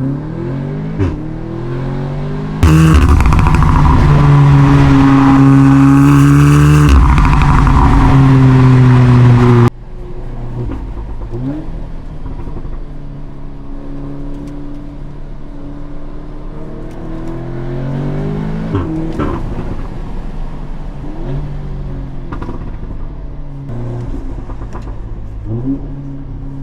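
Tuned Audi S3's turbocharged four-cylinder with a Milltek exhaust accelerating hard, revs rising and dropping through gear changes. A much louder stretch with heavy rushing noise starts suddenly about three seconds in and cuts off about seven seconds later, after which the engine keeps pulling and easing off at a lower level.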